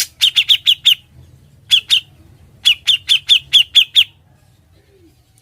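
Cucak jenggot (grey-cheeked bulbul) calling in quick bursts of loud, sharp notes that each slur downward, about five a second: a run of five, a pair, then a run of seven, before it falls silent about four seconds in.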